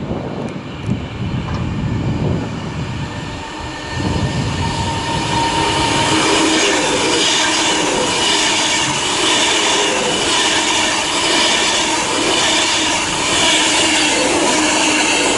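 Class 390 Pendolino electric train passing through the station at speed without stopping: a rushing of wheels and air that builds about four seconds in and stays loud, with steady high whining tones over it.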